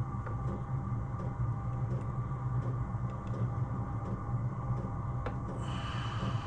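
A steady low hum with a few faint clicks and taps scattered through it.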